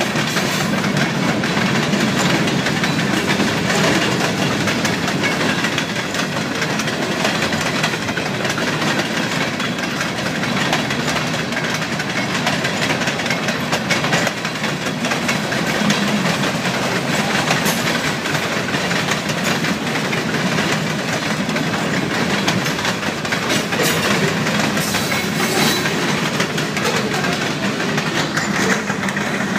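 Freight train cars rolling steadily past on steel wheels, a continuous rumble of wheels on rail with rapid repeated clicks as the trucks pass over the track.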